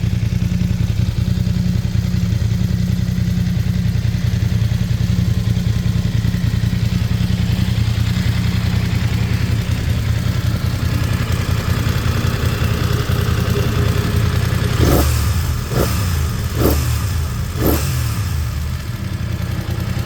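BMW F900 XR's parallel-twin engine idling steadily, then blipped four times in quick succession, about a second apart, before settling back to idle.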